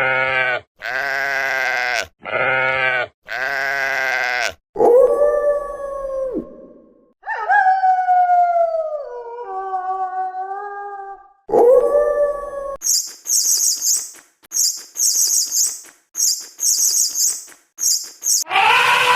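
A series of different animals' calls one after another: several wavering calls, then long calls that slide in pitch, then a run of short high chirps.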